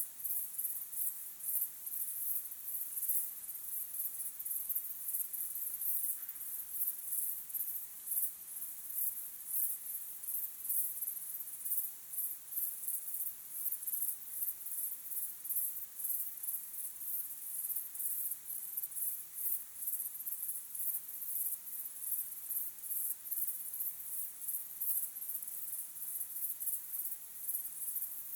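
Crickets chirping in a steady chorus of high-pitched, rapidly pulsing trills.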